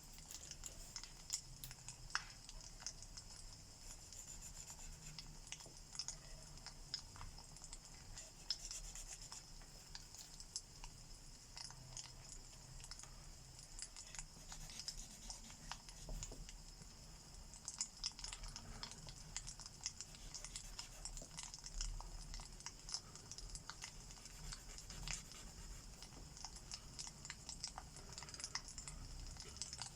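Crackling fireplace with frequent sharp pops over a steady hiss and low rumble, with soft scratching of alcohol-marker strokes on paper.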